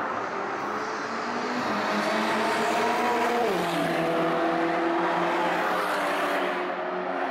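Porsche Cayman sports car engine running hard down a race-circuit straight and passing by; its pitch rises, drops sharply about three and a half seconds in, then holds steady.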